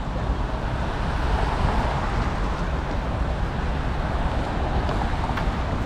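Steady rumble of wind on an action camera's microphone during a bicycle ride, mixed with city road and traffic noise.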